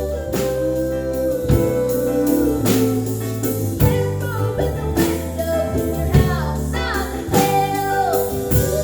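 Live acoustic string band playing a song, with guitar, a voice or instrument holding and sliding between notes, and a steady beat about every second.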